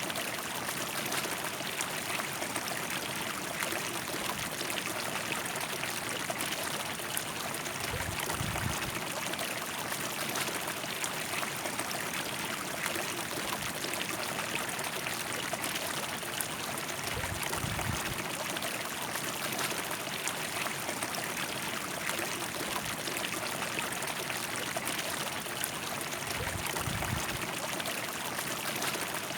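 A river running: a steady rush of flowing water. A soft low rumble rises under it three times, roughly every nine seconds.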